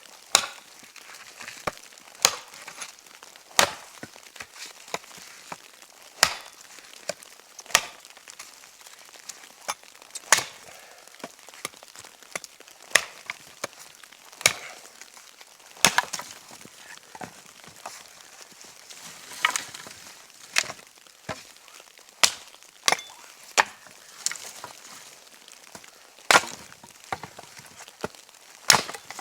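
Wood being chopped: a series of sharp, separate chopping strikes, irregularly spaced about one every second or two.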